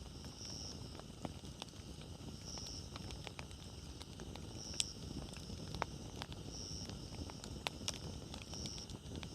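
Wood fire crackling, with sharp irregular pops and snaps over a steady low rumble of the flames. A short, high chirp recurs about every two seconds.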